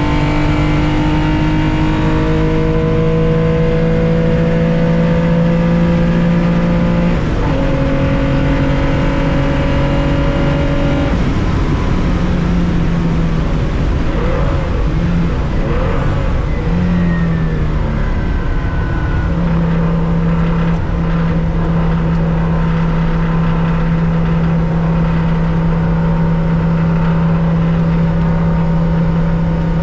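1965 Porsche 911's 2.0-litre air-cooled flat-six heard from the cockpit at racing speed. Revs climb slowly in gear, drop with an upshift about seven seconds in and climb again. In the middle the revs dip and waver, then hold steady for the last ten seconds.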